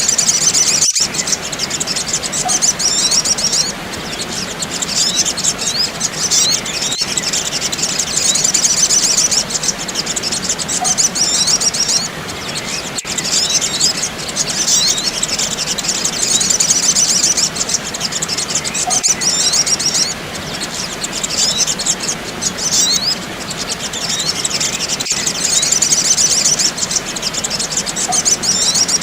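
Sunbird lure call played as a loop: a busy run of high, rapid chirps and twitters over a steady hiss, the same passage repeating about every six seconds.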